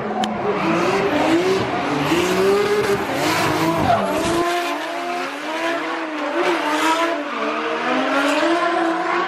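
Two drift cars on track, engines revving hard with the pitch swinging up and down as the throttle is worked, over tyre squeal and skidding.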